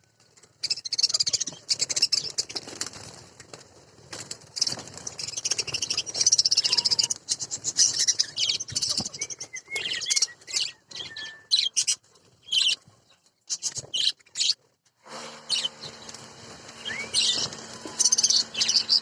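A flock of budgerigars chattering and warbling, with fast high chirps and sharp clicks. The chatter breaks off briefly twice in the middle, and in the last few seconds a steady low hum runs under it.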